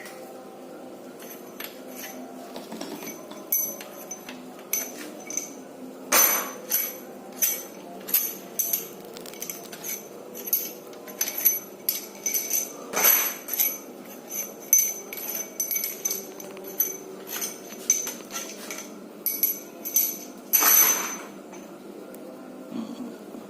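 Irregular metallic clinks and knocks from hand tools and bolts against engine metal during an Isuzu Panther diesel engine teardown, with three louder clatters about 6, 13 and 21 seconds in.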